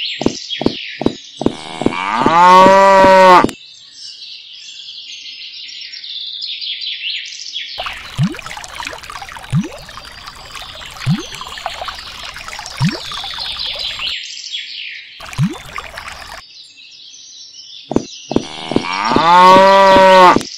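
Cow mooing twice, once about two seconds in and again near the end, each call swelling and being the loudest sound. Between the moos comes a run of about five short gulping drinking sounds, roughly one every second and a half, with birdsong chirping throughout and a few sharp clicks near the start and end.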